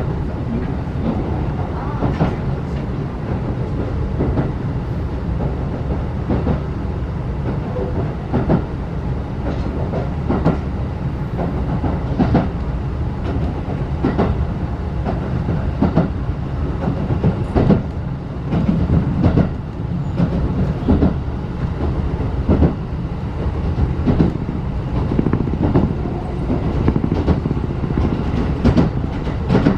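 Inside a 35-series passenger coach running along the line: a steady low rumble with wheels clacking over rail joints every second or two.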